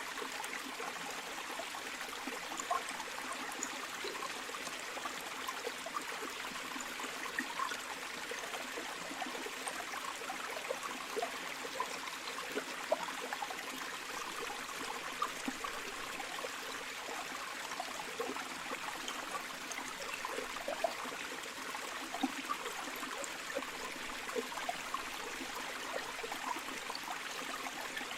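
A shallow river or stream flowing steadily, a constant rush of water with many small splashes and gurgles through it.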